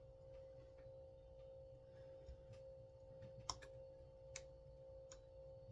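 Near silence over a steady hum, with a few faint clicks from small parts of a chainsaw recoil starter being handled, the sharpest about three and a half seconds in.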